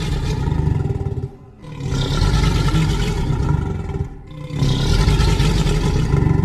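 A reconstructed dinosaur call: three long, deep, rumbling roars with short breaks between them.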